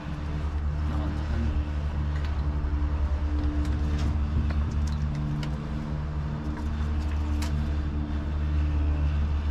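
A vehicle engine running steadily at an even idle, with a few faint clicks over it.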